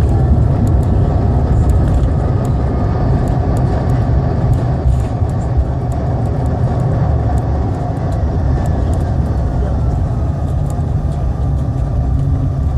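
Jet airliner cabin noise during landing: a loud, steady low rumble with a faint engine whine that slowly falls in pitch, and light scattered rattling clicks.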